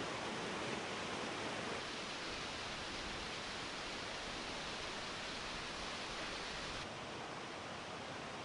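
Steady rushing of nearby waterfalls, an even wash of falling water with no other distinct sound; the level steps down slightly about two seconds in and again near the end.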